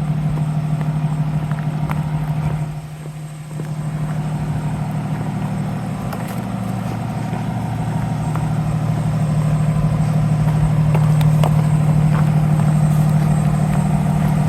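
A motor vehicle engine running steadily at idle, a constant low hum that dips briefly about three seconds in.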